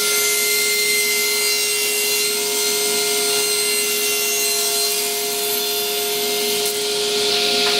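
Table saw running and cutting through a block of maple, a steady whine over a hiss of cutting.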